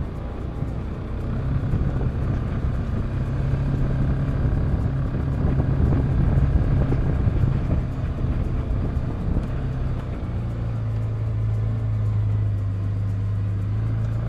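Polaris Ranger 570's single-cylinder engine running steadily under way, with the low drone dropping in pitch about ten seconds in.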